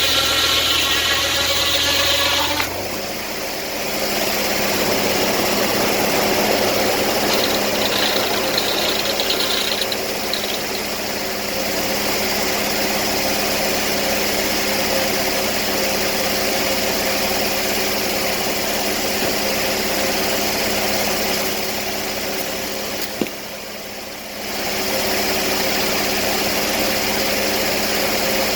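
An engine running steadily. Its note changes about two and a half seconds in, and near the end there is a sharp click and a brief drop in level before it picks back up.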